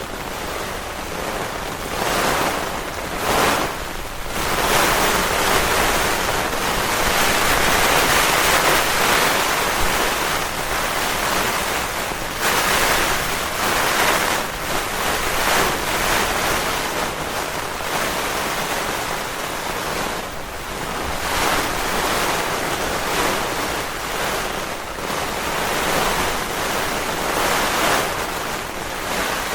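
Heavy rain and gusting wind beating on a tent's rain fly, heard from inside the tent: a loud, continuous rush that swells and eases in gusts.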